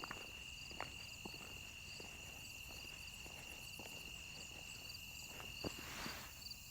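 Insects chirping: a steady high trill with a second, pulsed chirp repeating about twice a second. A few faint clicks are scattered through, the sharpest near the end.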